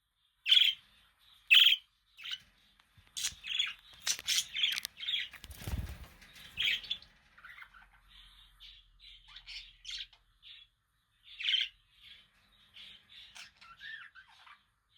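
Budgerigars chirping and chattering: a few sharp, loud chirps at the start, a busy cluster of chirps and clicks, then softer warbling chatter. Partway through there is a brief low flutter.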